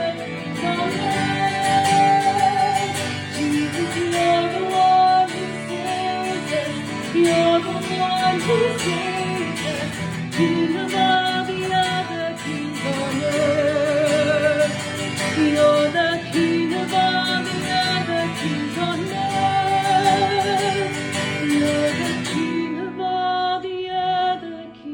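A woman singing a worship song over strummed acoustic guitar. The strumming stops about 22 seconds in, leaving a few held notes.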